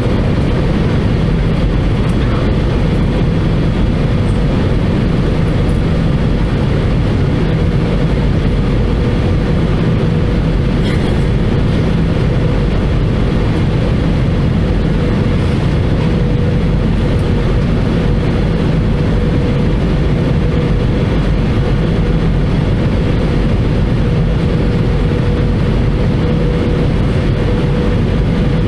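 Airbus A320-214 cabin noise in flight, heard from a window seat over the wing: a steady roar and rumble from the airflow and the CFM56 turbofan engines, with a faint steady hum on top.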